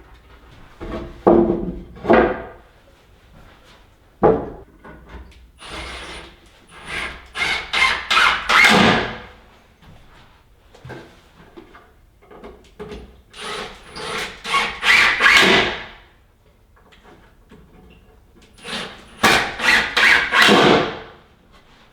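Hand carpentry on wooden shelf boards: a few separate knocks, then three bursts of rapid, loud tool strokes on the wood, each lasting two to three seconds.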